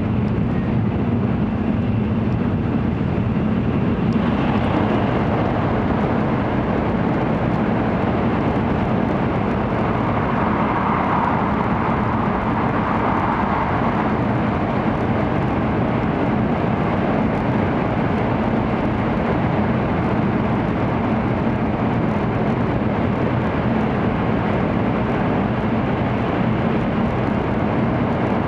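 Running noise of an N700-series Shinkansen at speed, heard inside the passenger cabin: a steady, loud rush with a low hum. About four seconds in the noise turns harsher and brighter as the train enters a tunnel.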